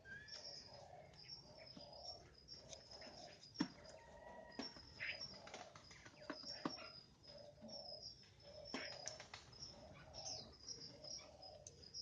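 Faint caged birds calling: high, short chirps repeat over a low call that comes about twice a second. A few sharp clicks stand out, loudest a little after three seconds in.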